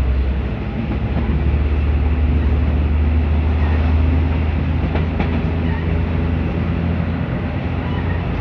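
A passenger train running along the track, heard from inside the carriage: a steady rumble of wheels on rails, with a few faint clicks of the wheels over rail joints about five seconds in.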